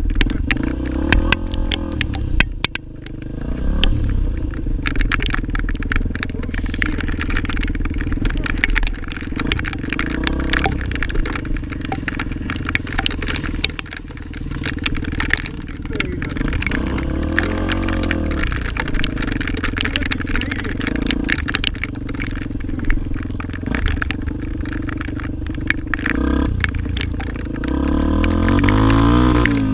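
Motorcycle engine running continuously while riding, its pitch swelling and falling now and then, with constant sharp rattles and clatter over rough ground.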